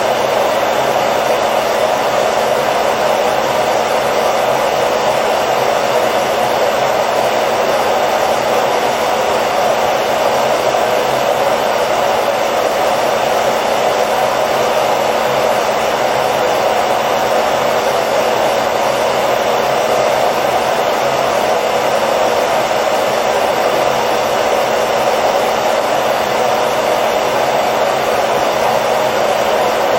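Hair dryer running steadily: a constant blowing whir of fan and air with a faint motor hum, unchanging throughout.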